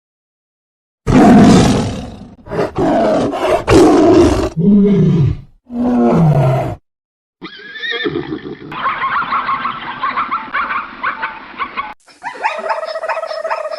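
Animal calls cut one after another. There are loud, deep calls with falling pitch in the first half. From about the middle a different animal gives higher, steadier calls, and near the end another clip cuts in.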